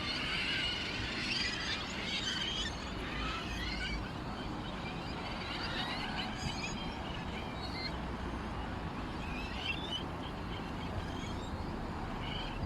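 Small songbirds chirping and twittering, many short high calls and quick trills overlapping throughout.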